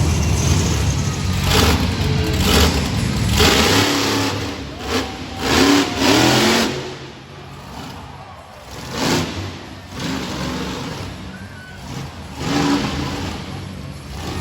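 Monster truck engines running, with a low steady rumble at first and then a series of sharp revs that rise and fall in pitch, loudest about five to six seconds in.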